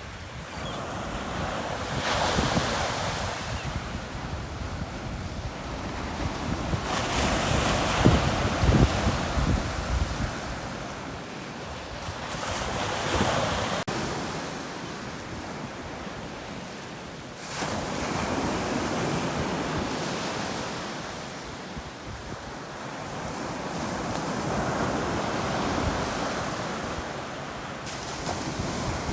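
Gulf of Mexico surf: waves breaking and washing up the beach every few seconds, one swell after another, the loudest about eight seconds in. Wind buffets the microphone in places.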